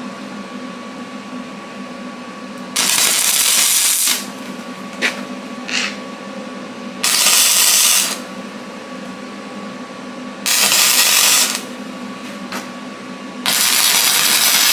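Arc welder laying four short tack welds, each about a second of hissing arc noise, with pauses of a few seconds between, as a nut is tacked onto a steel plate. A steady hum runs underneath.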